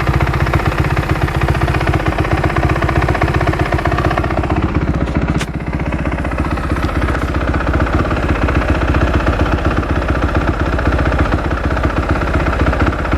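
2008 Kawasaki KX250F's single-cylinder four-stroke engine running steadily, with a short dip in loudness about five seconds in.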